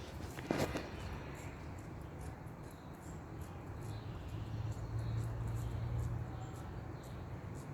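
Street background with the low rumble of a vehicle swelling as it passes and then fading, after a brief sharp squeak about half a second in.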